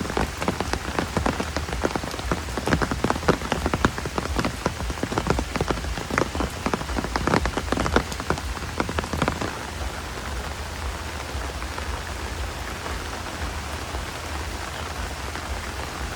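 Rain falling steadily, with many close drops tapping on a surface for about the first nine seconds, then settling into an even hiss.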